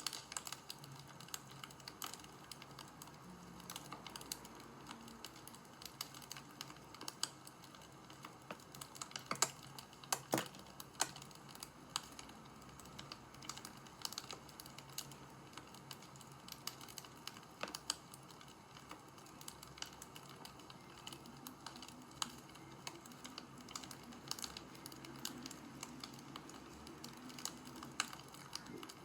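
Wood fire crackling: a steady soft hiss with irregular sharp pops and snaps, a few louder ones about ten seconds in.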